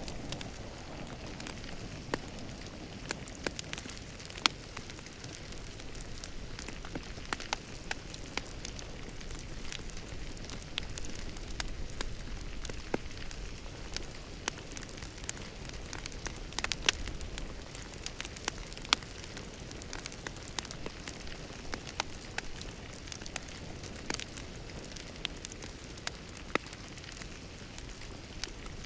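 Wood fire crackling in a fireplace: a steady low hiss and rumble with frequent irregular sharp pops and snaps.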